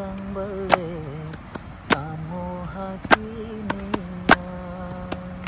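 A voice holding long, slightly wavering sung notes, with sharp knocks about once a second.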